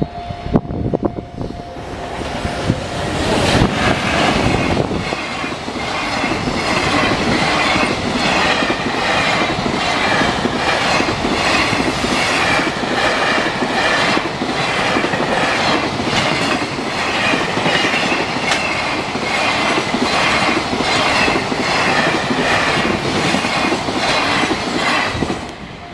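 A long train passes a level crossing, its wheels clacking over the rail joints in a steady repeating rhythm for about twenty seconds. A steady tone at the start fades as the train arrives, and the sound drops off sharply near the end.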